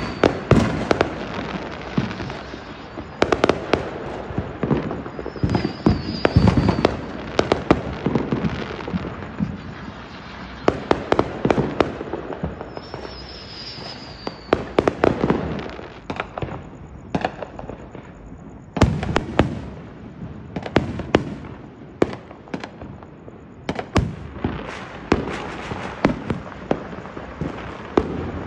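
Aerial fireworks going off: a dense, continuous run of bangs and crackling, with a few short falling whistles.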